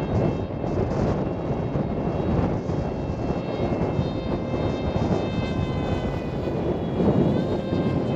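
Strong wind buffeting the microphone as a dense, steady rumble. Over it runs a thin, steady high whine from an aircraft motor, which shifts in pitch about seven seconds in.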